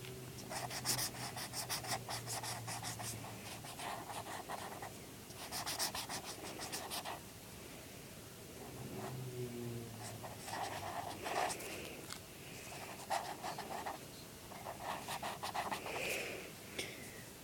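Marker pen colouring in on paper: quick back-and-forth scratchy strokes in bursts, with short pauses between them.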